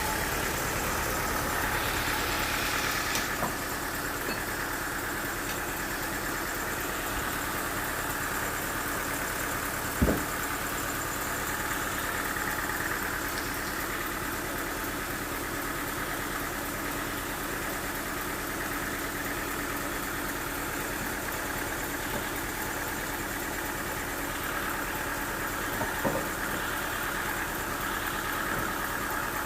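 Sawmill machinery running steadily, with a sharp knock about ten seconds in and a smaller one near the end.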